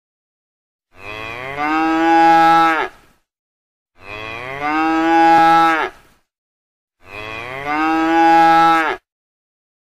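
Cow mooing three times, about three seconds apart: each moo lasts about two seconds, starting lower and swelling into a loud held note that breaks off at the end. The three moos are identical, the same call repeated.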